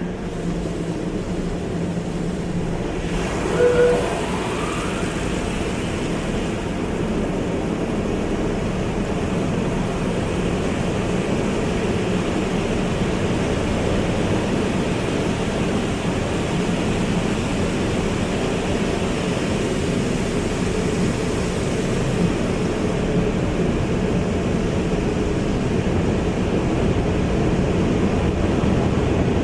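Car wash running: a steady rush of spraying water and wash machinery, with a brief squeak about four seconds in.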